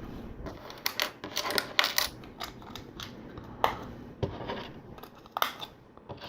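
Small plastic LEGO bricks clicking and rattling as they are handled and pressed together, with a quick run of sharp clicks about a second in and scattered single clicks after.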